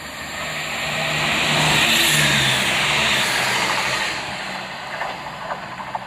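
Diesel train passing at speed: the rush of wheels and engine swells to a peak about two seconds in, then fades as it goes by.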